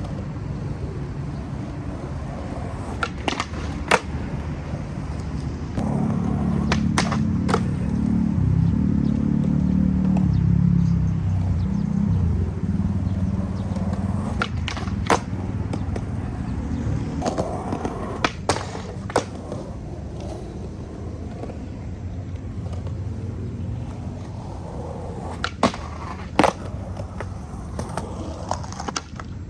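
Skateboard wheels rolling on concrete with a steady rumble, louder for several seconds from about six seconds in. Sharp wooden clacks of tail pops and landings come in pairs every few seconds.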